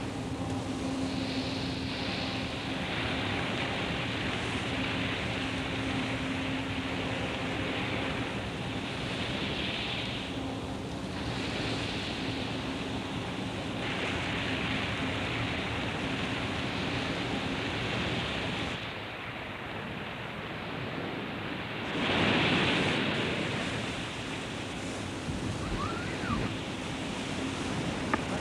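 Wind and sea noise, a steady rush, with a steady hum beneath it. About two-thirds of the way through it briefly goes duller and quieter, then swells up louder.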